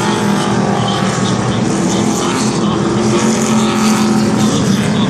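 A field of NASCAR Camping World Truck Series V8 race trucks running together at slow parade speed: a steady, layered engine drone whose pitches drift gently up and down.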